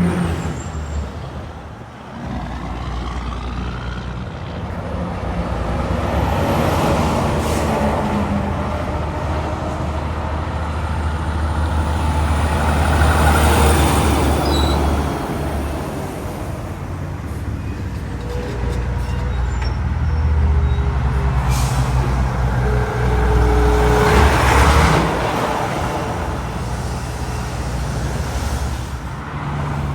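Highway traffic with heavy trucks going by one after another. A deep diesel engine rumble runs throughout under tyre and wind noise, which swells and fades with each of several pass-bys.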